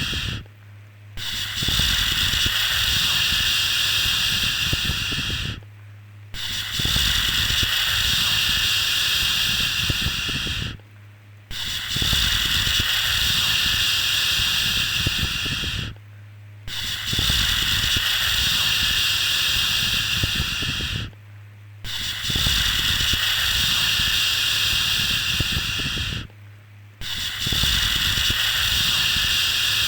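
A long, steady 'shhh' shushing sound for lulling a baby to sleep. It repeats about every five seconds, each shush running roughly four and a half seconds with a brief pause between.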